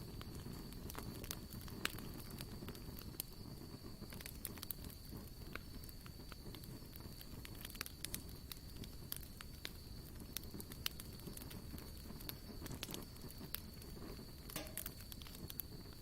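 Wood campfire crackling, with frequent sharp pops at irregular intervals over a low steady rush. A thin, steady high-pitched tone runs underneath.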